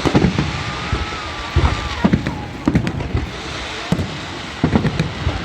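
Fireworks going off: about ten sharp bangs and cracks at irregular intervals, with a faint high whistle in the first two seconds.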